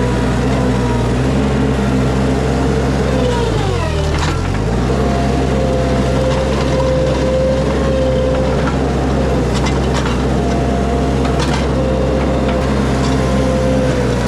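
Mini skid steer engine running hard, with a whine that comes and goes. About four seconds in, the engine pulls down in pitch under load and then recovers. A few metallic clanks are heard later on.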